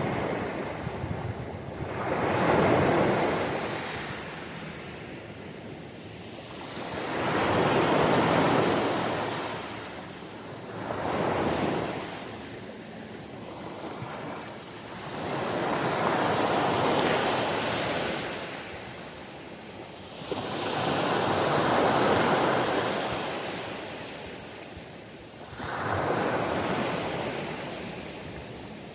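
Ocean surf: waves breaking and washing up the shore, each one swelling and falling away, about six in half a minute.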